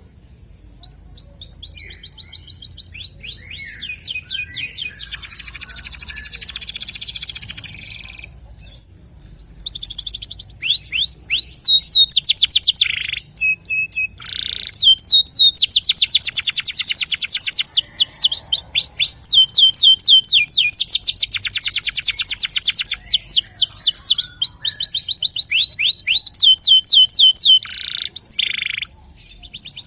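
Local canary singing energetically in long, fast trills of rapidly repeated high chirps, broken by brief pauses about eight seconds and about fourteen seconds in.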